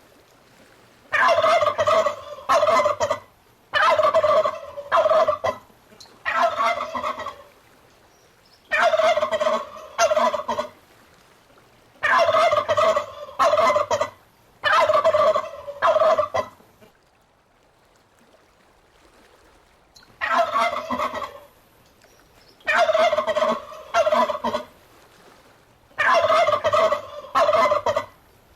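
Male turkey gobbling over and over, each gobble a rapid rattling call of one to two seconds, with a pause of about three seconds past the middle.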